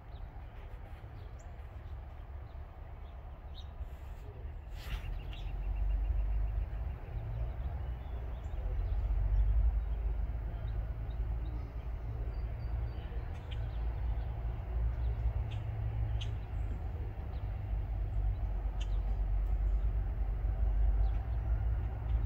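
Low, steady rumble of approaching Norfolk Southern diesel locomotives leading a loaded coal train, growing louder about six seconds in, with small birds chirping.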